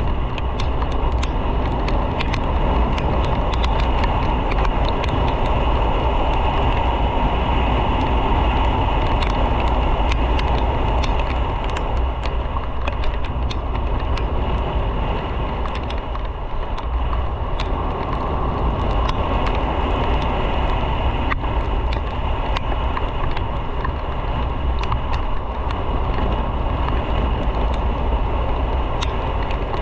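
Motorcycle riding at steady speed: continuous wind rush and road and engine noise, heaviest in the deep low end. Scattered faint ticks come through over it.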